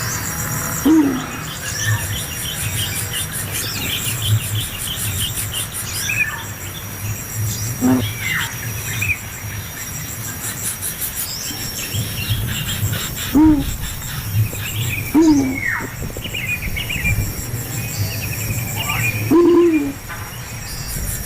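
Insects chirping steadily in a high, pulsing chorus, with short downward-sliding bird calls every few seconds, about five in all.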